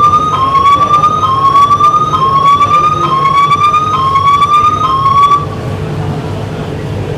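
Singapore MRT train's door-closing warning: a series of short rising electronic tones, about one a second, that stops about five seconds in, signalling the doors are about to close. A steady low hum of the train continues underneath.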